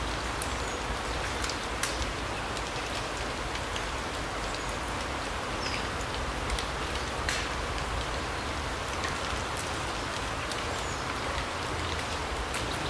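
Forest ambience of steady rain: an even patter with scattered sharp drips and ticks, and a few faint, brief high bird chirps.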